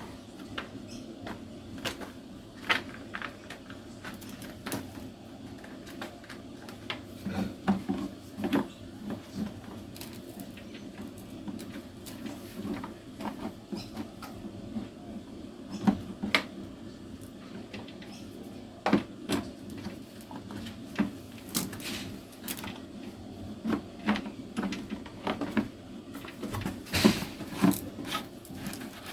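Irregular clicks, taps and knocks of parts being handled and fitted while a Victa Tilt-A-Cut S90 power edger is reassembled, with its fuel tank going back on. A steady low hum runs underneath.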